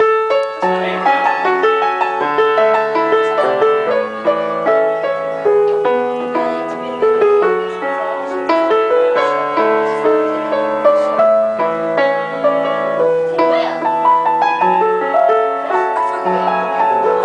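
Piano being played live, a continuous run of notes and chords at a steady pace.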